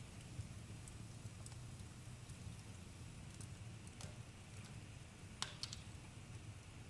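Wood campfire burning with a steady low rumble and scattered sharp crackles and pops, a small cluster of them about five and a half seconds in.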